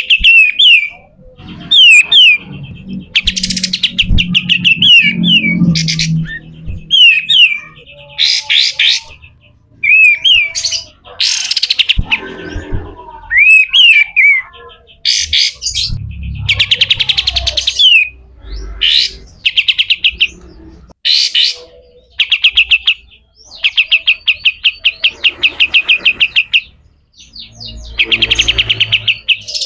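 Kapas tembak bulbul singing loudly: short downslurred whistled notes alternating with long trains of rapid, harsh chattering notes, the 'besetan kasar' rough chatter that keepers play as training material for other birds. A few low thuds sound under the song in the first few seconds and again midway.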